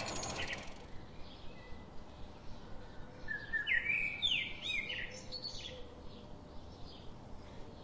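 Songbirds singing: a quick run of chirped, slurred phrases about three seconds in, with fainter scattered calls around it.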